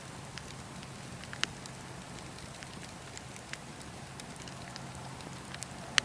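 Wood fire crackling: scattered sharp pops and snaps over a steady hiss, with the loudest pop about a second and a half in and another near the end.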